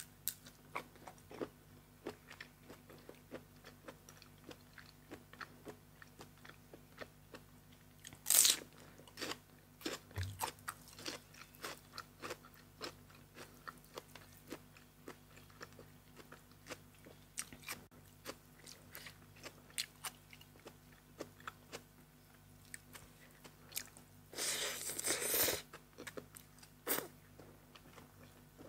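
A person eating close to the microphone: steady wet chewing with crunchy bites of raw shrimp and crisp raw vegetables such as bitter gourd. A louder crunch comes about eight seconds in, and a longer, louder one lasting about a second comes near the end.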